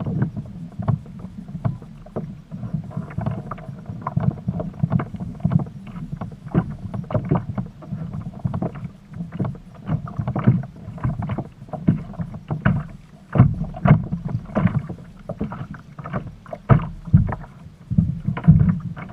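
Water slapping and splashing against a kayak's hull in a quick, irregular run of sharp slaps over a low rumble.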